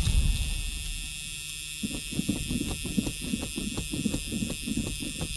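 Starter cranking the 1979 Ford Thunderbird's V8, setting in about two seconds in with an even rhythm of about four compression beats a second, without the engine catching: fuel is not reaching the engine, which the owner puts down to a failed fuel sending unit. A steady high-pitched buzz runs behind it.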